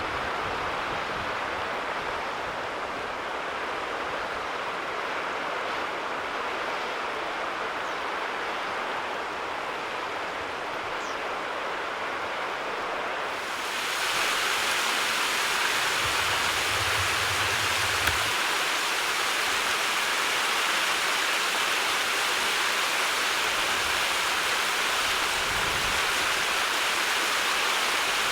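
Steady rush of running water, as from a stream. About 14 seconds in it abruptly becomes louder and brighter, with a fuller hiss.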